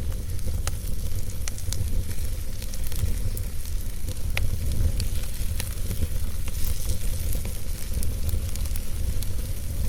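Wood fire burning in a fireplace: a steady low rumble and hiss, with irregular sharp crackles and pops.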